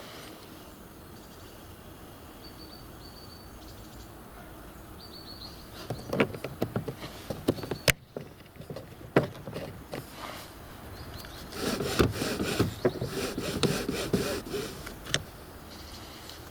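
A ratchet torque wrench with a 17 mm socket being worked on a bolt: two clusters of irregular clicks and rattles, the second longer and denser, with one sharp click between them.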